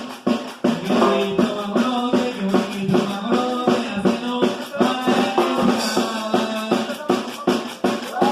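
Norteño band music: a drum kit keeps a steady beat of about three strokes a second, and a melodic line of held notes comes in over it about a second in.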